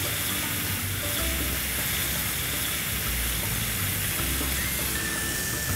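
Flour-coated chicken wings sizzling steadily as they fry in hot oil in a pan, with garlic and salt spooned over them.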